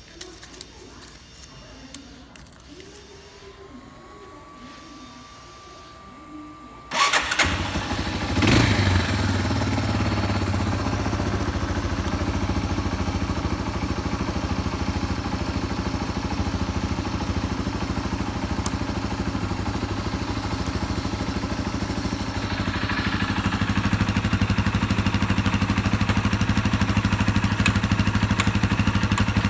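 Yamaha Serow 225's air-cooled single-cylinder four-stroke engine started on its electric starter about 7 s in, with a brief surge of revs a second later, then settling into a steady idle that grows a little louder about 22 s in. The engine runs quietly with no abnormal noise, as the seller states.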